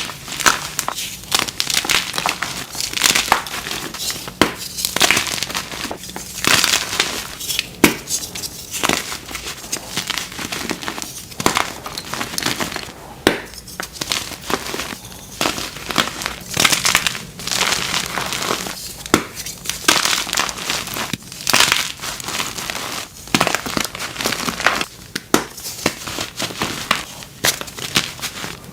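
Blocks of dyed gym chalk being crushed and crumbled by hand, a dense run of soft, crunchy crackles, several a second, with no pause.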